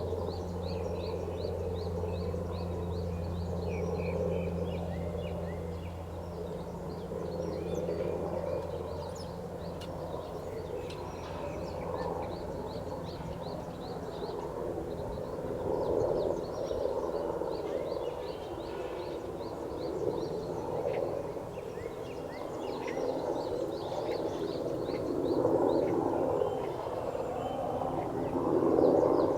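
Rapid, high-pitched bird chirps repeating many times a second over a steady outdoor background noise, with a low hum that fades out about six seconds in.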